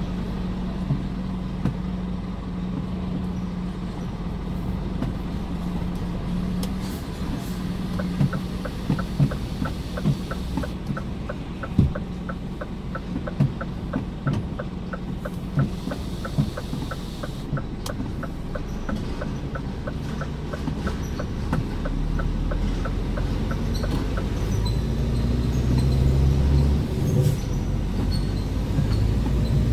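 Scania R410 truck's six-cylinder diesel running, heard from inside the cab. A regular ticking runs for several seconds in the first half. Later the engine grows louder as the truck pulls away under load.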